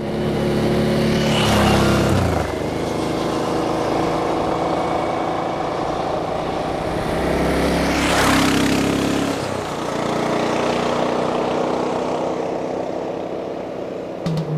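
Motorcycle engine under way over steady wind and road rush, the revs climbing and then dropping back twice, about two seconds in and again about nine seconds in, as it shifts up.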